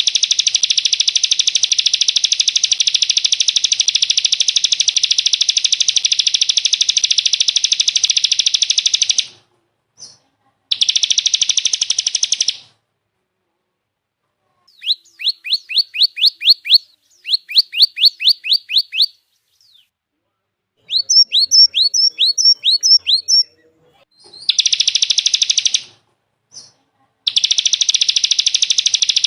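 Recorded songbird calls: a long, dense, high buzzing trill that breaks off, then comes back in short bursts. In the middle come two runs of quick down-slurred whistle notes, about five a second, and the buzzing trill returns near the end.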